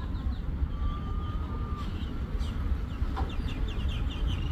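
Small birds chirping, with short high calls scattered throughout and a quick run of chirps about three seconds in, over a steady low rumble.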